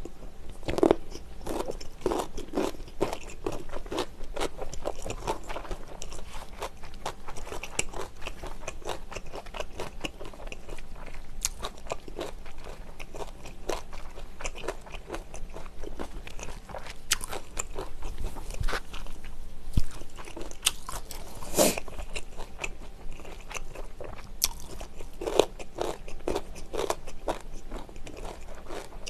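Close-miked chewing of food: a steady run of small clicking, crunchy mouth sounds, with a few louder crunches in the last third.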